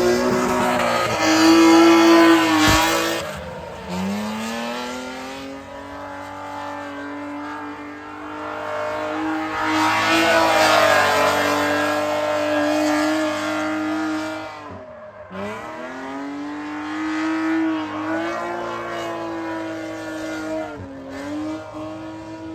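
Drift car engine held at high revs on track. Its pitch drops sharply and climbs back three times, about 4, 15 and 21 seconds in.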